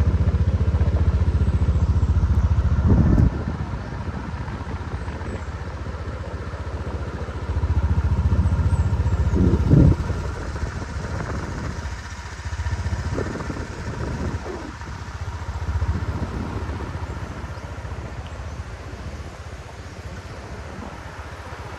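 A motor vehicle's engine running, a low pulsing rumble that is loudest for the first three seconds and again from about eight to ten seconds in, and fades down between and after.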